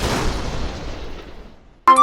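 Explosion-style boom sound effect, its noisy rumble fading away over about two seconds while the music is cut.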